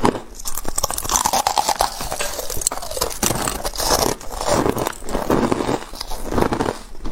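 Close-miked chewing of ice, crunching and crackling in bite after bite, about one chew a second.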